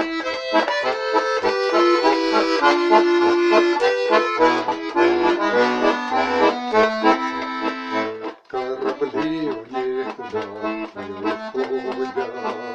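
Accordion playing a song's instrumental introduction: held chords over a bass line, with a short break about eight seconds in, after which the chords turn short and rhythmic.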